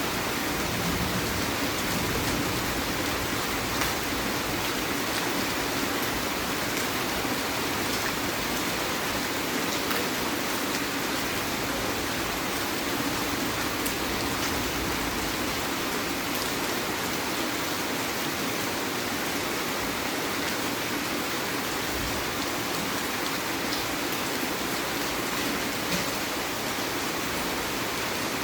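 Heavy rain falling steadily in a continuous hiss, with occasional drops hitting close by.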